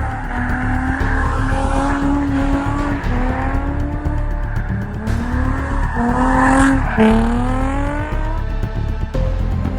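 Car engine revving hard, its pitch climbing in repeated rising sweeps and dropping back between them, about four times.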